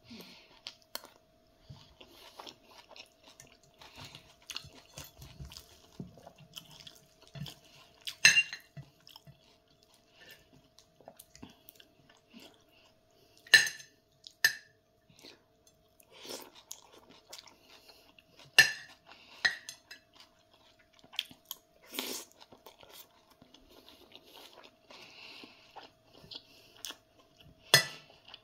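Close-up chewing and crunching of food, with a metal fork and spoon scraping and clinking on a plate. A handful of sharp clinks stand out every four or five seconds.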